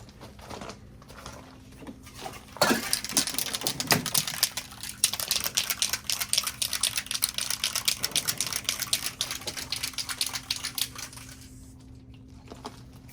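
A fast, even clicking rattle over a hiss starts about two and a half seconds in and stops near the end.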